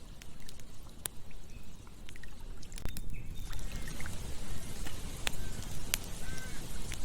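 Campfire crackling, with irregular sharp pops over a steady rushing background that grows fuller about halfway through.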